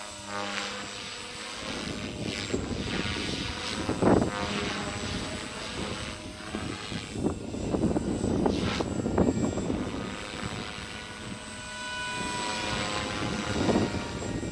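Electric RC helicopter (Beam Acro480) in freestyle flight: rotor blades whooshing over the motor's whine. It swells louder several times as it manoeuvres, about four seconds in, around eight to nine seconds, and near the end.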